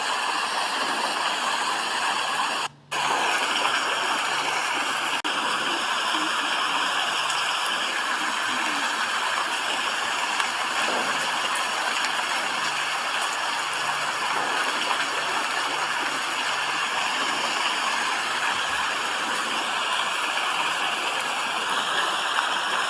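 Steady rain, an even hiss of falling water, cutting out for a moment about three seconds in.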